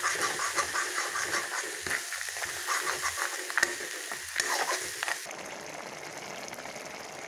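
Crab and roselle-leaf curry sizzling in a kadai while a steel spatula stirs it, scraping and clicking against the pan. About five seconds in, the stirring stops and a steadier, quieter sizzle of the bubbling curry carries on.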